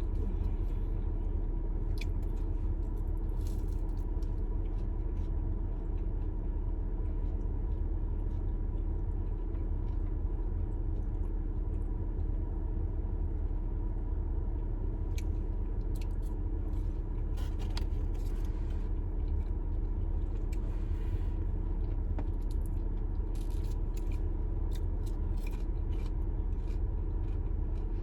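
Eating inside a car: scattered bites, crunches and chewing over the car cabin's steady low rumble.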